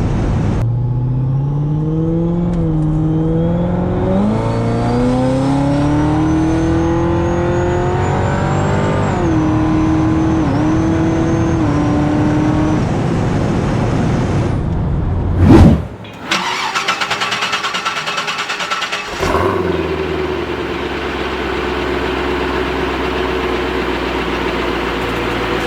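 Supercharged Corvette V8 pulling through the gears with its blower whining alongside. The engine pitch climbs in steps over a couple of shifts for about nine seconds, then holds steady. About fifteen seconds in comes a sudden loud burst, then a few seconds of rapid fluttering noise, and then an engine running steadily at a low, even pitch.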